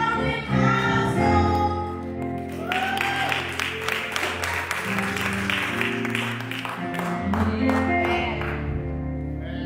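Church worship music: a choir singing held notes over instrumental accompaniment. Through the middle, a dense stretch of quick, noisy strikes joins the music.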